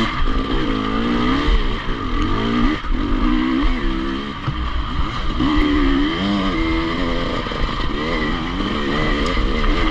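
Enduro motorcycle engine running and revving, its pitch rising and falling over and over as the throttle is opened and closed.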